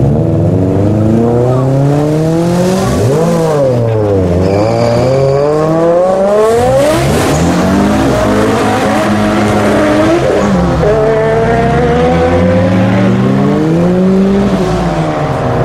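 Modified car engines revving hard and accelerating away, the pitch climbing several times and dropping back between pulls. A brief high squeal comes about five seconds in.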